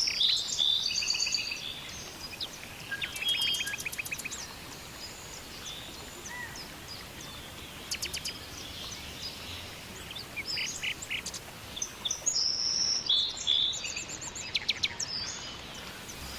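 Small songbirds chirping and calling, with short high notes and quick rattling trills in repeated bursts, busiest at the start and again near the end.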